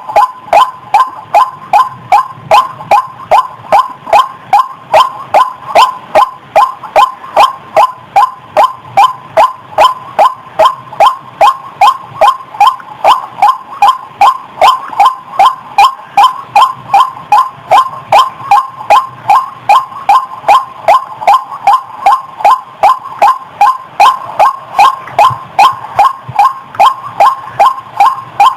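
White-breasted waterhen (ruak-ruak) calling: one loud note repeated steadily, about two and a half a second, without a break. This is a recorded lure call of the kind used to attract the bird for trapping.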